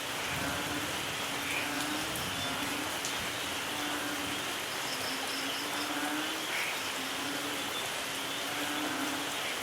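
Steady rain falling, with a low tone repeating about once a second underneath.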